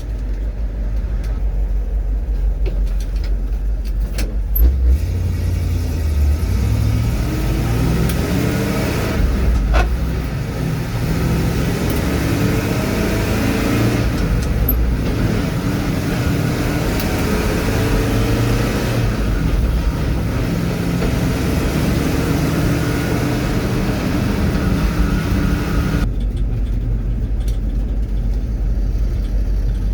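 A loaded truck's engine running while driving, heard from the cab, with the engine pitch rising twice as it accelerates, about a quarter of the way in and again past halfway. It runs steadier and duller near the end.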